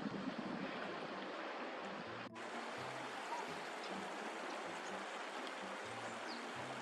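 Running water: a steady, even rush of flowing or lapping water, briefly broken by a sudden cut about a third of the way in.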